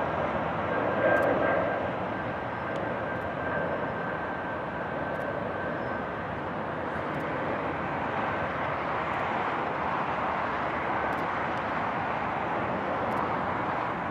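Airliner engines passing: a dense rush of engine noise, loudest about a second in, then easing to a steady rumble. A thin whine fades out about halfway through.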